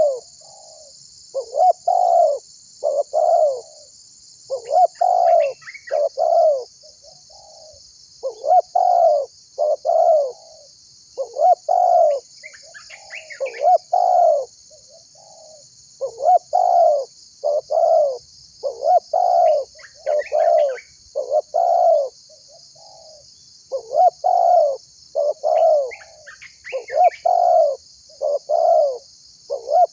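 Spotted dove cooing over and over, in short phrases of three or four low, slightly falling coos every few seconds. A steady high buzz runs underneath.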